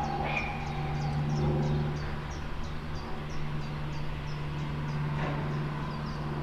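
A steady low hum, with a small bird's rapid, evenly repeated high chirps over it, about three a second.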